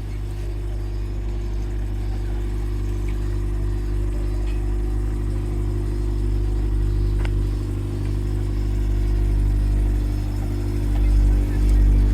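A car engine running steadily at low revs, growing louder and less even near the end.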